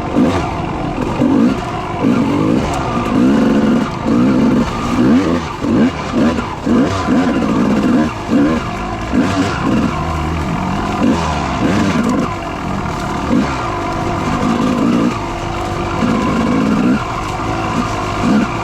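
Dirt bike engine revving up and falling off over and over as it is ridden hard, its pitch swinging up and down about once a second.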